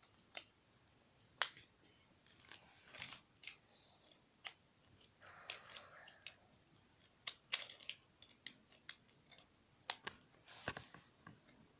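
LEGO pieces clicking and rattling as they are handled and pressed together: irregular sharp clicks with a short soft rustle of pieces about halfway through.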